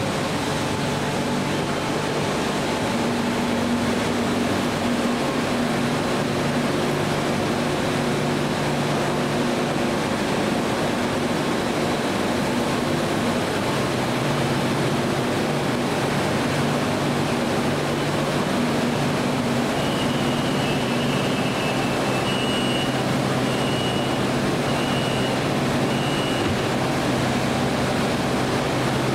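A BTS Skytrain electric train standing at the platform gives off a steady hum. About twenty seconds in, a high door-closing warning beep sounds roughly once a second for several seconds as the doors shut.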